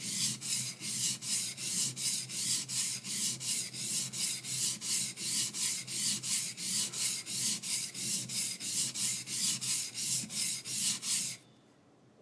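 Back of a high-speed-steel skiving knife scraped back and forth on a coarse 220-grit sharpening stone to flatten it: a steady gritty rubbing of about three to four strokes a second, which stops abruptly near the end.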